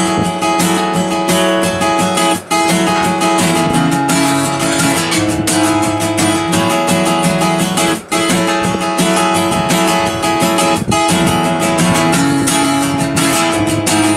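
Acoustic guitar strummed fast and hard through full, ringing chords, with three brief breaks between chord changes.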